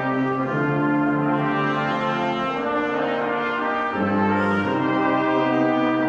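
Brass ensemble playing slow, held chords, the harmony changing every second or two.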